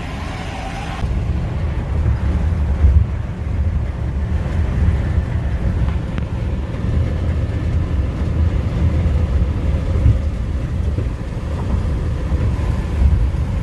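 U-Haul box truck driving, heard from inside the cab: a steady, loud low drone of engine and road noise with no change in pitch.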